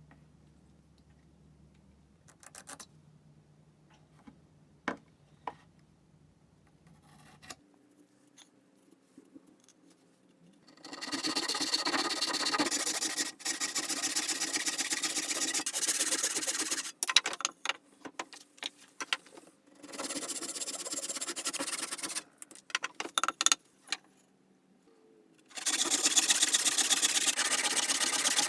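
Wood being sawn to cut mitered bridle joints. The sawing comes in long, steady runs of several seconds with short breaks, after a quieter stretch of scattered taps and clicks.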